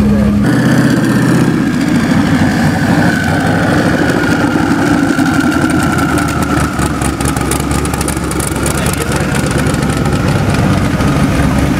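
Modified C6 Chevrolet Corvette's V8 idling, a steady loud rumble with a faint high tone drifting slowly lower.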